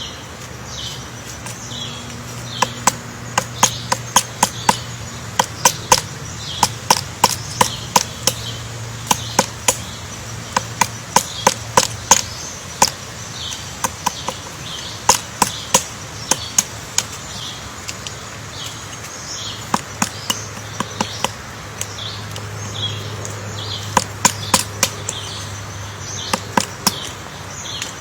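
Woodpecker pecking into wood to dig out its nest hole: sharp single knocks in irregular runs of a few a second, broken by pauses of a second or two.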